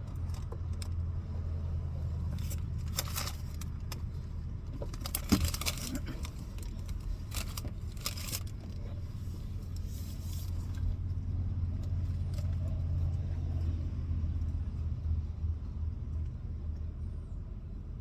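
A steady low hum, with a stretch of clicking and rustling handling noises in the first half.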